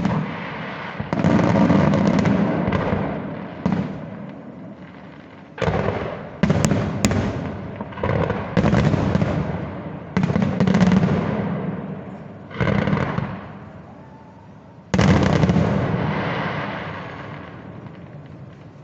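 Fireworks display: aerial shells bursting one after another, about nine sudden booms in all, each dying away slowly over a few seconds. The last big burst comes about fifteen seconds in.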